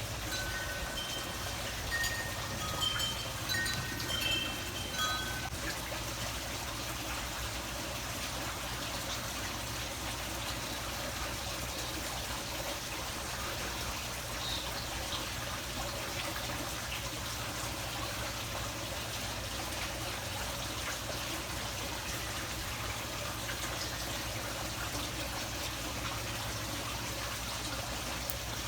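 Steady hiss of running water. In the first five seconds, a scattering of short, high ringing notes at several different pitches.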